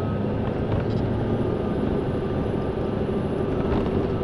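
Steady road and engine noise inside a moving car, with a faint hum.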